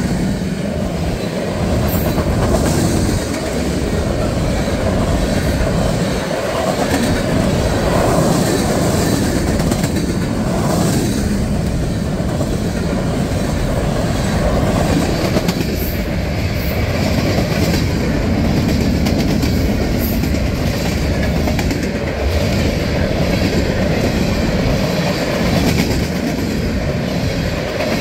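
Freight train of tank cars and covered hoppers rolling past close by: a steady noise of steel wheels on the rails, with scattered clicks as the wheels cross the rail joints.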